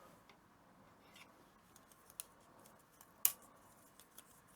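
A few light clicks and one sharper snip about three seconds in, from small hobby cutting tools and plastic model-kit parts being handled.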